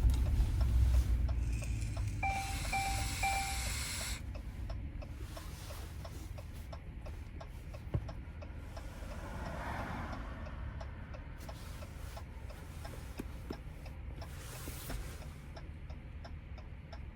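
Inside the cab of a Hemi V8 Ram pickup on the move: low engine and road rumble that eases off, with a steady light ticking. About two seconds in, a quick three-beep chime sounds.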